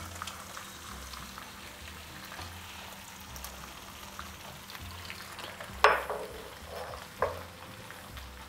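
Onion-tomato masala sizzling in oil in a frying pan as cubes of paneer are tipped in and stirred with a silicone spatula. Two sharp knocks, about six and seven seconds in.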